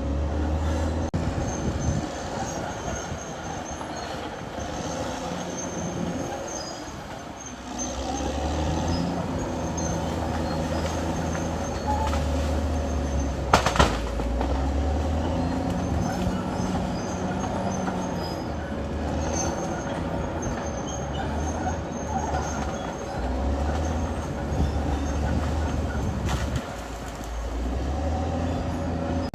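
Caterpillar D6R XL bulldozer working: its diesel engine runs, loading up and easing off every few seconds, under a steady whine from the machine. A single sharp knock sounds about 14 seconds in.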